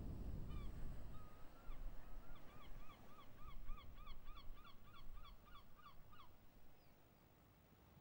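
A bird calling in a rapid series of short rising-and-falling notes, about three or four a second for some four seconds, after a few slower calls. A low rumble fades out in the first second.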